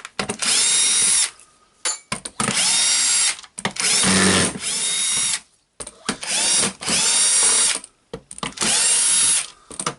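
Electric drill-driver backing out the housing screws of a DeWalt DCS331 jigsaw, in five short runs of about a second each, its motor whine rising in pitch at the start of each run, with short pauses between screws.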